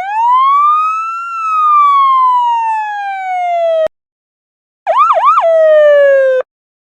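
Two siren sound effects. The first is a single wail that rises for about a second, falls slowly for over two seconds and is cut off abruptly. After a second's pause comes the second: two quick yelps, then a short falling tone that stops suddenly.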